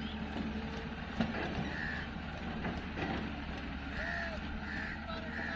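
Heavy diesel machinery engine running steadily at low revs. A few short bird calls sound over it.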